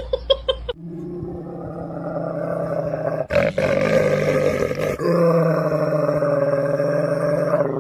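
A pet animal growling: a long, low, steady growl, broken briefly about three seconds in.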